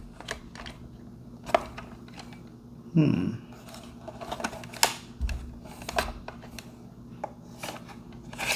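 Hands handling a plastic toy excavator: scattered light clicks and knocks, with a brief low murmur about three seconds in.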